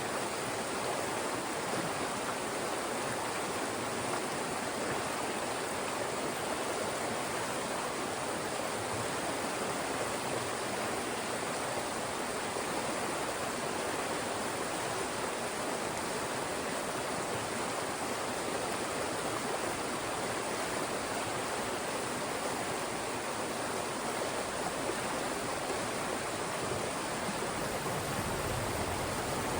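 Fast-moving mountain stream rushing over and through rocks, a steady even rush of water.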